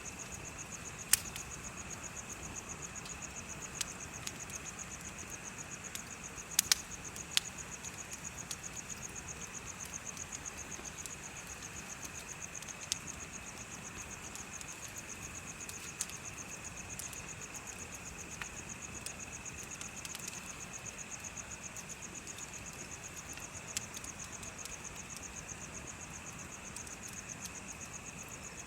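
Insects chirping in a steady, rapid trill, over a crackling bonfire that gives sharp pops now and then, the loudest about a second in and around six to seven seconds in.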